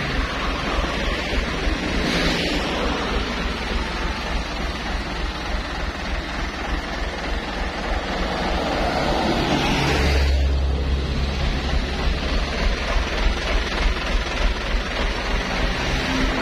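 Road traffic with heavy vehicle engines running and passing, a deep low rumble swelling about ten seconds in.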